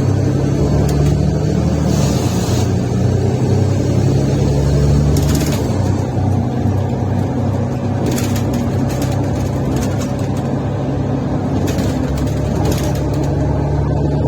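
Mercedes-Benz Citaro O530 city/interurban bus engine running under way with a defective exhaust, heard from inside the bus: a loud, steady low drone that drops slightly in pitch about five and a half seconds in. Several short hisses come through over it.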